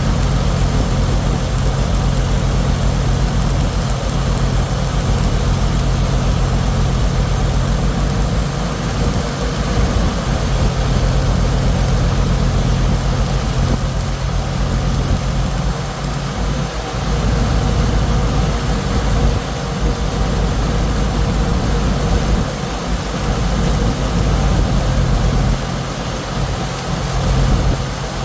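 Heavy engine running steadily at a constant speed, a loud low drone with hiss above it.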